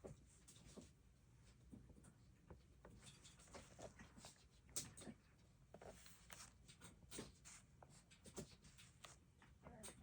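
Faint small taps, clicks and scratchy rustles of stationery and paper being handled on a desk.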